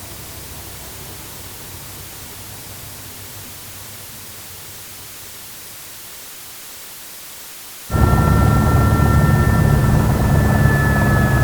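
Helicopter sound effects. A faint steady rushing noise, then about eight seconds in a loud helicopter recording cuts in abruptly: a high turbine whine with two steady tones that droop slightly, over a heavy low rumble.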